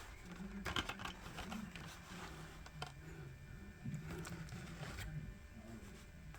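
Scattered light clicks and taps from handling a diecast toy truck and its packaging, over a faint low hum.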